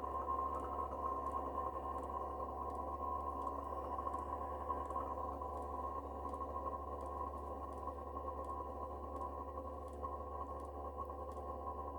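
Chinese diesel air heater running after start-up: a steady whine from its combustion and blower fan, with its fuel dosing pump ticking at a regular pace.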